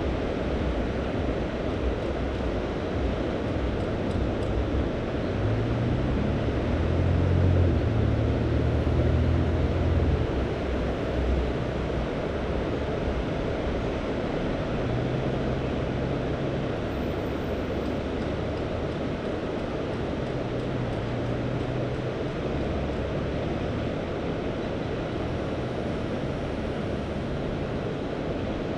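Mediterranean sea surf: a steady wash of waves with some wind on the microphone, and a louder low rumble that swells up about five seconds in and eases off around ten seconds.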